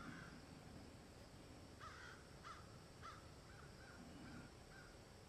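Faint ambience with a bird calling: one short call at the start, then a series of short calls about half a second apart from around two seconds in, the first few strongest and the rest trailing off weaker.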